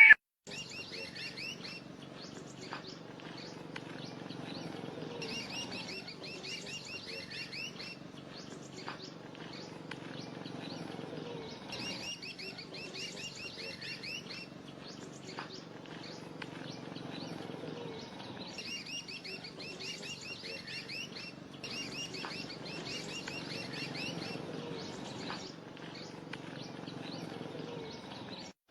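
Songbird singing a short phrase of rapid high chirps, repeated every few seconds, over a faint low background hum.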